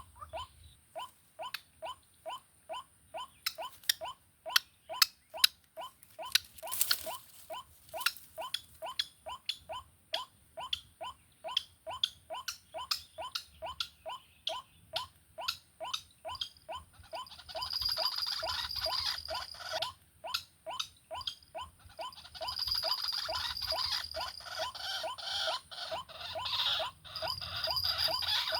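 White-breasted waterhen (ruak-ruak) calls played through an MP3 player as a trapping lure: a short call repeated about three times a second, turning into a louder, busier jumble of calls with a steady high whine a little over halfway through.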